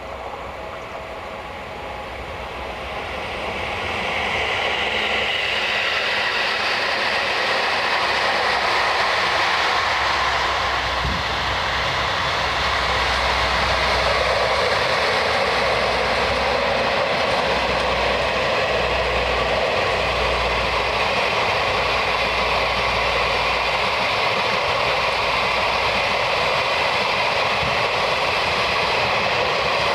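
Train approaching and running past: the rumble and rail noise swell over the first few seconds, then hold loud and steady.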